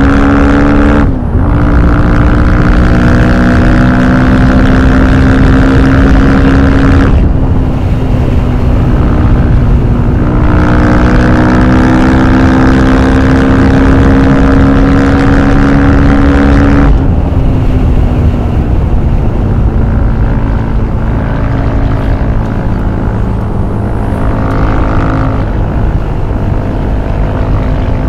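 Husqvarna FE 450 single-cylinder four-stroke engine with an FMF exhaust, under way and pulling through the gears: its pitch climbs slowly, breaks sharply at shifts about a second in and about seven seconds in, climbs again, then falls away about seventeen seconds in to steadier, lower running.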